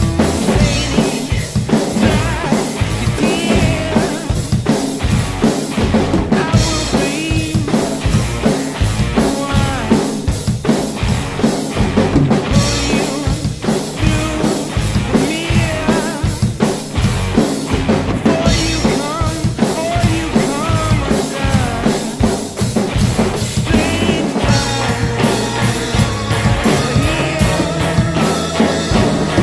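Drum kit played in a steady rock beat, with kick drum, snare and rimshots. Pitched instruments, such as guitar, play along over it.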